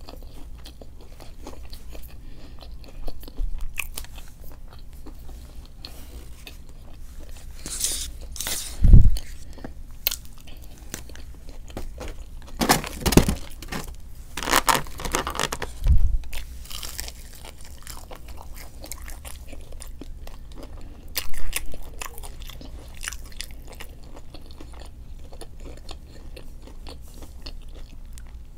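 Close-miked chewing and biting of food, with crunches, the wet clicks of the mouth, and several louder bites through the stretch.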